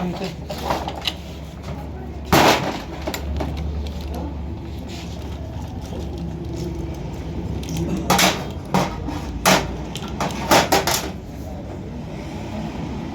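Sharp metal knocks and clanks from work on a rickshaw gearbox and engine, about six in all: one loud one a couple of seconds in, then a cluster near the end. A steady low hum runs underneath.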